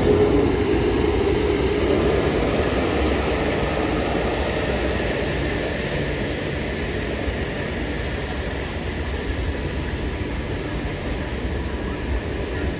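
Airbus A380 jet noise fading over the first two seconds after it passes, followed by the weird low rumbling, whooshing noise of its wake turbulence, slowly easing off.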